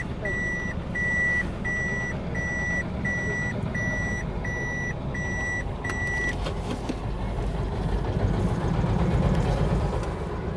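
A vehicle's reversing alarm beeping steadily, about three beeps every two seconds, then stopping about six seconds in, over a vehicle engine running.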